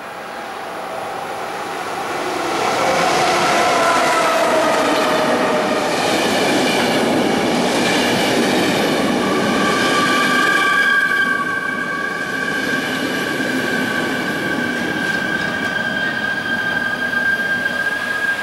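Train running through the station, growing loud over the first few seconds, with metallic squealing tones from the wheels; a steady high squeal holds through the second half.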